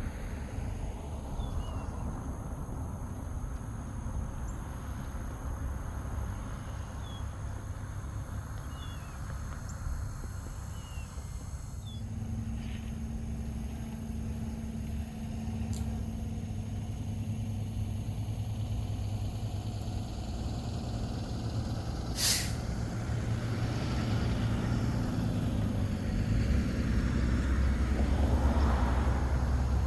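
Road traffic passing by: a steady low rumble, with a vehicle coming up loudest near the end. A single sharp click sounds about two-thirds of the way through.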